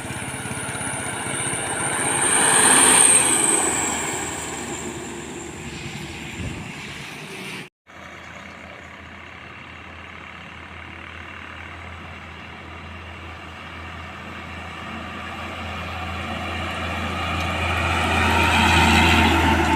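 Heavy trucks passing on a road. One goes by loudest about three seconds in, with a high whine falling in pitch as it passes. After a cut, another truck's engine drones low and grows steadily louder as it approaches.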